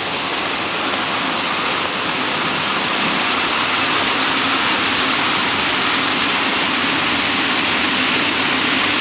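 Model train running on the layout's track, a steady rushing hum of wheels and motor that grows slowly louder.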